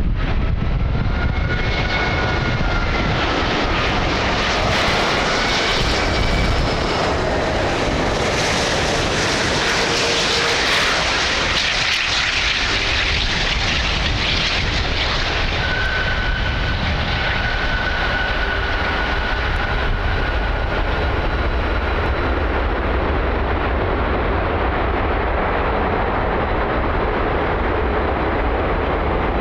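Four Rolls-Royce Trent 900 turbofans of a British Airways Airbus A380 on arrival: loud, steady jet noise with high whining tones that slide in pitch as the aircraft passes, then settle into a steady whine.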